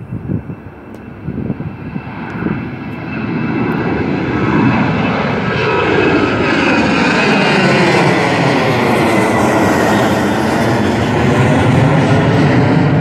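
Jet airliner departing, its engine noise building over a few seconds to a loud, steady level, with a sweeping, phasing tone as it passes.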